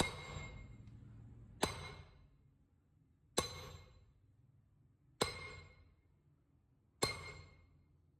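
Five evenly spaced hammer blows on a steel part, about one every 1.8 seconds, each ringing with a bright metallic tone that dies away over about a second. A low hum fades out in the first two seconds.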